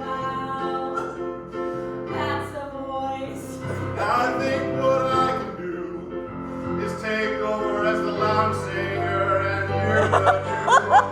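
Singers performing a song with piano accompaniment, holding long sustained notes. Near the end, laughter and chatter break in.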